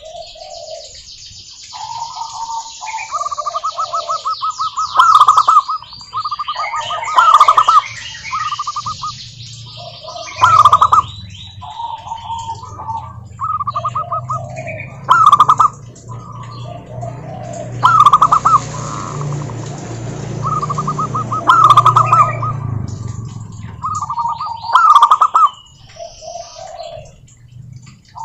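Zebra doves singing: repeated phrases of rapid staccato cooing notes, one after another with short gaps. High chirping from smaller birds runs over the first several seconds, and a low hum sits under the middle of the stretch.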